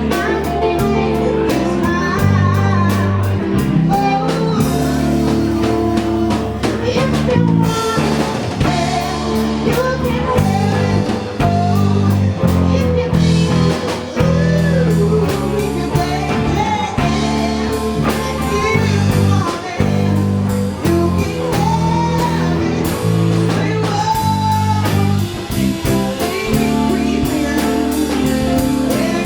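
Band playing a blues number: a singer over guitar and drum kit.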